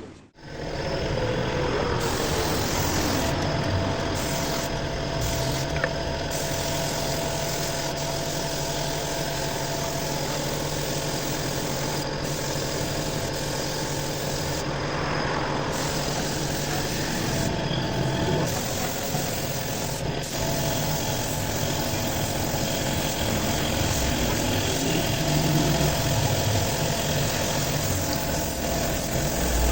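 A machine running steadily, an even hiss with a steady hum over it, coming in abruptly just after the start.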